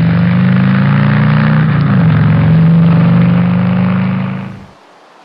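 Harley-Davidson XL1200T Sportster's 1200 cc air-cooled V-twin running steadily through its stock factory mufflers, with a slight wobble in pitch a little under two seconds in. The exhaust sound cuts off sharply about four and a half seconds in, leaving faint hiss.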